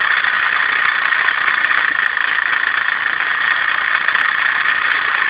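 Small Meccano model steam engine running, with a steady hiss.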